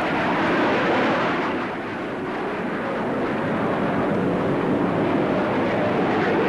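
Jet noise from an Avro CF-100's twin Orenda turbojets as the fighter flies its display. It is a loud, even rush that swells in the first second, dips briefly about two seconds in, then holds steady.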